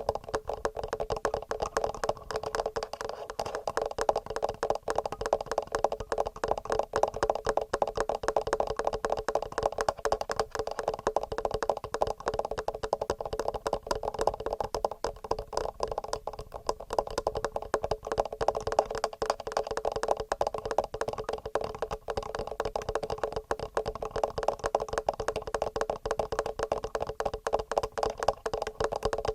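Fingernails tapping fast and regularly on a TASCAM recorder's microphones: a dense, unbroken stream of rapid clicks.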